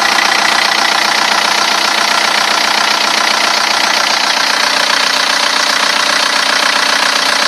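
Diesel car engine idling with a steady, rough clatter that holds unchanged throughout.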